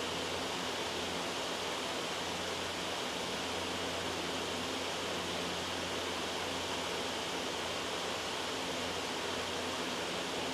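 Loud, steady white noise: an even, unbroken hiss with a faint low hum beneath it.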